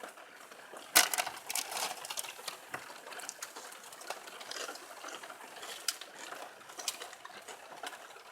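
Wood bonfire crackling: irregular sharp snaps and pops, the loudest about a second in.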